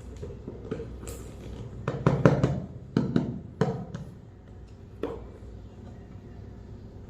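Hard toys or packaging being handled: a few clicks, then a cluster of knocks and clatters about two seconds in and single knocks about three, three and a half and five seconds in, over a faint low hum.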